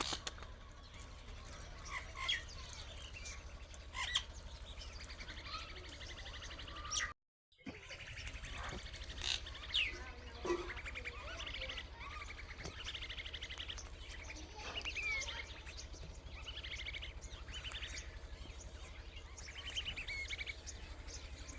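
Birds chirping and calling, many short overlapping chirps and sliding notes, with a brief cut to silence about seven seconds in.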